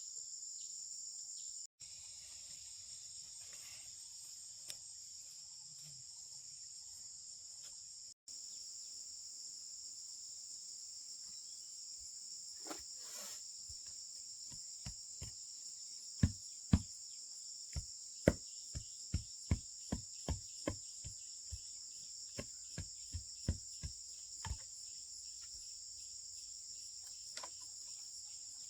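Steady high insect chorus, such as crickets, shrilling throughout. About halfway through comes a run of sharp knocks, roughly two to three a second, for several seconds.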